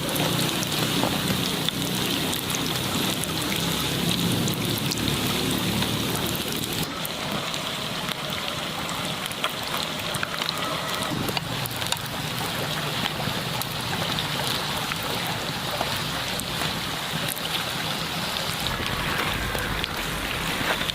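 Hot oil sizzling steadily around rice cakes frying in a pan, a dense hiss full of fine crackles and pops. The higher hiss drops off somewhat about seven seconds in.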